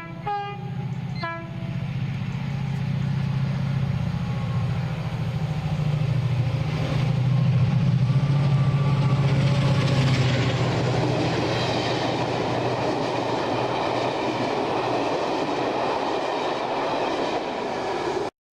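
Train horn giving two short blasts, then a train's engine running steadily with rail noise building up. The sound cuts off abruptly near the end.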